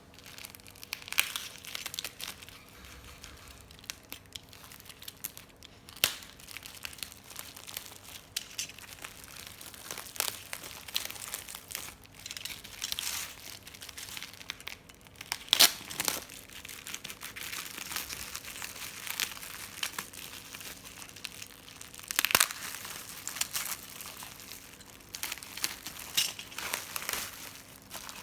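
Plastic packaging being crinkled and torn by hand in irregular bursts, with a faint steady hum underneath.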